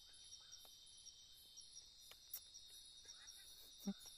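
Faint chorus of forest insects: a steady high drone with a rapid pulsing chirp on top. A single soft knock sounds a little before the end.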